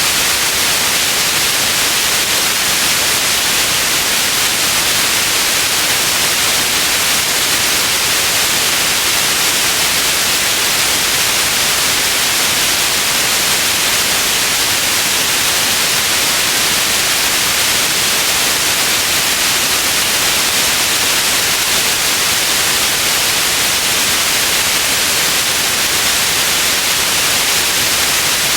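Steady white noise: an even, unchanging hiss that is strongest in the high range.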